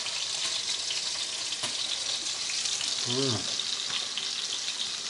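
Meat frying in a pan: a steady sizzling hiss with small crackles.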